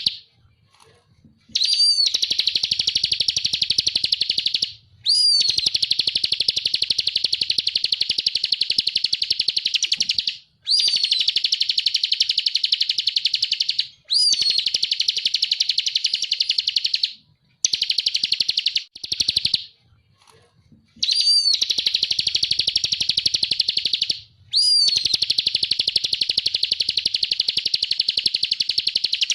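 A ciblek (prinia) sings its fast, buzzing 'ngebren' trill. About seven long bouts each open with a short up-and-down note and are separated by brief pauses.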